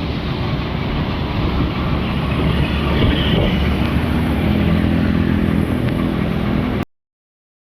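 Motorcycle engine running on the move, with a deep rumble of wind and road noise on the microphone. The sound cuts off abruptly to silence about seven seconds in.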